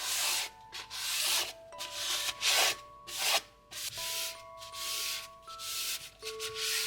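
Repeated rubbing or scraping strokes, about one a second, over soft background music with sustained notes.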